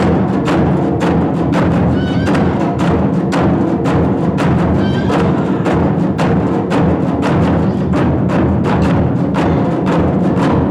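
Japanese taiko drums played in an ensemble, a loud, fast, even beat of about four to five strokes a second. A few short rising high notes sound over the drumming.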